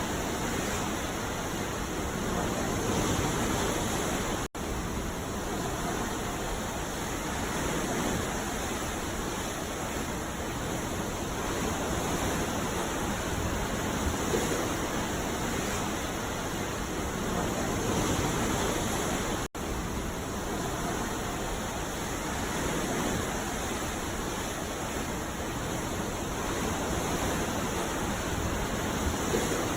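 Ocean surf washing onto a beach: a continuous rush of breaking waves that swells gently every few seconds. Two momentary dropouts break it, about a sixth and two thirds of the way in.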